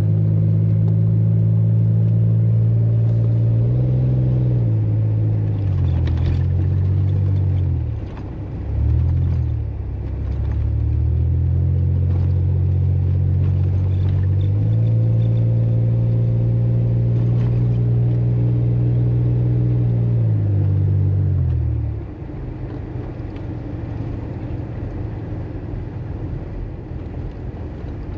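A vehicle's engine running under load, its pitch rising and falling several times as the revs change. About 22 seconds in, it drops away to a quieter, steady rumble.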